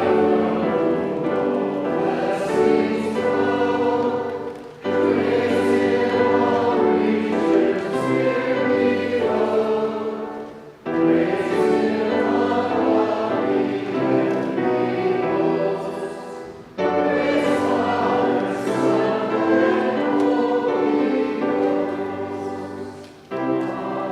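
Choir singing a hymn in long phrases of about six seconds, each ending in a brief break for breath, over a steady low sustained accompaniment.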